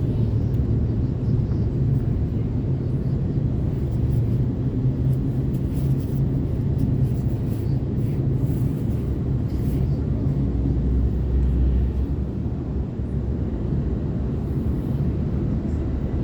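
Sydney Trains Waratah electric multiple unit running at speed: a steady low rumble of the wheels on the track and the traction gear, as heard from inside the carriage.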